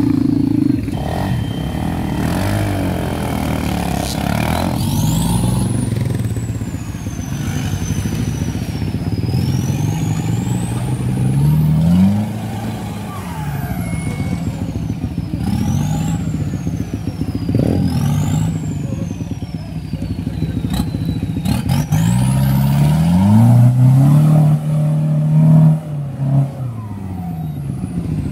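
A four-by-four's engine revving up and down again and again as it churns through a muddy water crossing, working hardest and loudest a little before the end. A thin high whine rises and falls with the revs.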